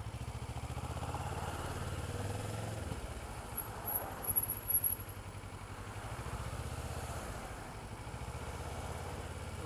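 Kawasaki Ninja 650R parallel-twin engine idling steadily with an even low pulse, with a few brief louder sounds about four to five seconds in.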